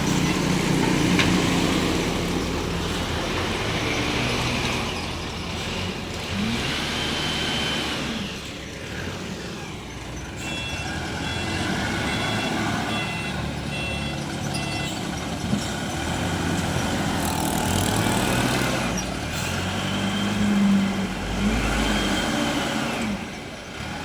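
SYZG ZL932 wheel loader's diesel engine running under load, revving up and falling back twice as it works. Its reversing alarm sounds a series of short, evenly spaced beeps for several seconds near the middle.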